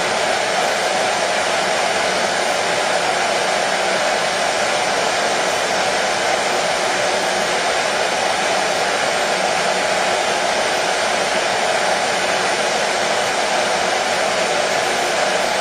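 Hair dryer running steadily, an even whooshing rush of fan and airflow with a faint whine that does not change.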